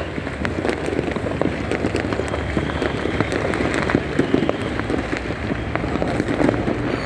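Dense, continuous crackle of many fireworks and firecrackers going off at once, a steady patter of small pops with a few sharper bangs.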